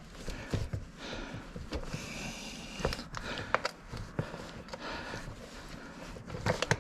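Irregular clicks and knocks of a wrench on metal as a stubborn nut is worked loose, with a cluster of sharper knocks near the end.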